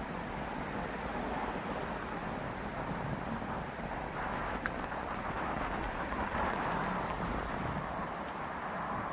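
Steady outdoor ambience of road traffic noise, swelling a little past halfway through, with a couple of faint ticks.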